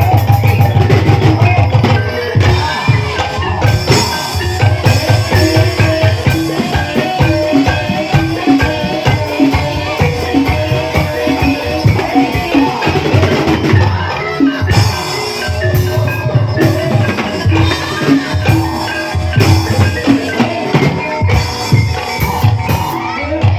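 Live ebeg gamelan music: hand drums beating a fast, busy rhythm under struck mallet instruments playing a melody of short ringing notes.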